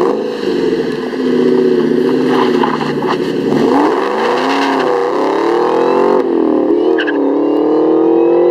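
2003 Ford Mustang SVT Cobra's supercharged 4.6-litre V8, through a Borla exhaust, accelerating hard from a standstill. The engine note climbs and drops at each of two gear changes, about three and a half and six seconds in.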